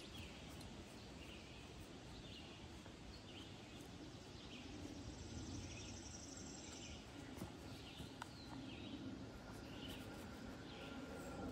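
A bird calling a short chirp over and over, about once a second, faint over a steady outdoor background hiss.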